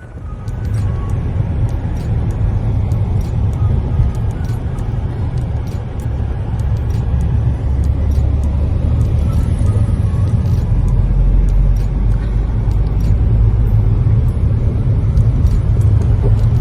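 Steady low rumble of a car being driven, heard from inside the cabin, with faint scattered clicks.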